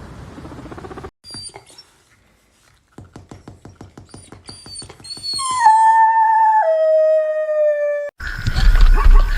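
Dog howling: one long howl that starts high and steps down in pitch twice, after a run of quick clicks and short chirps.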